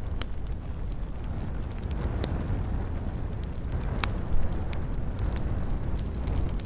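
Wood fire in a fireplace crackling, with irregular sharp pops over a steady low rush of burning, and one louder pop about four seconds in.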